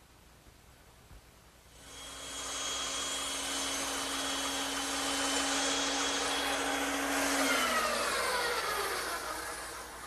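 A high-speed electric woodworking power tool starts about two seconds in and runs steadily with a whine while cutting wood. Near the end it is switched off and its pitch falls as it winds down.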